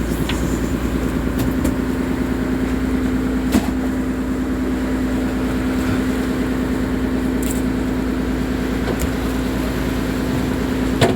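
Boat engine running at a steady, unchanging pitch, with a couple of brief knocks over it.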